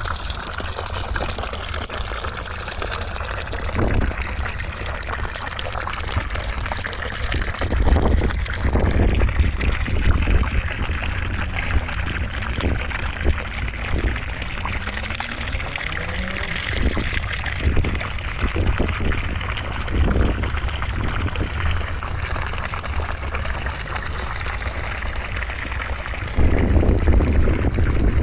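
Steady rushing of running water, a continuous gushing hiss over a low rumble, with a few brief knocks.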